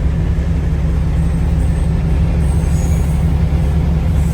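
Freight train cars rolling past a railroad crossing, a steady heavy low rumble with a few faint high wheel squeals between about one and three seconds in.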